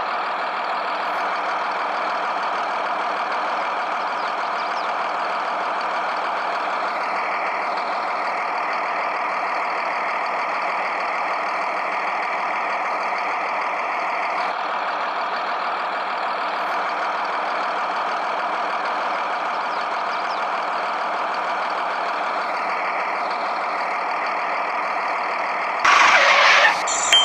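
A motor running steadily without a break, with a short louder burst of noise near the end.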